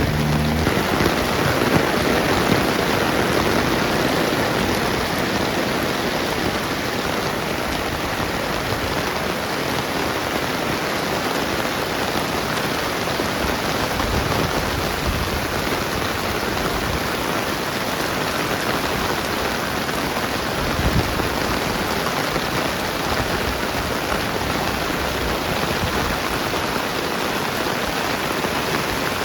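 Steady rain falling and pattering on the ground, an even hiss with no letup. A low engine hum dies away in the first moment, and there is one brief thump about 21 seconds in.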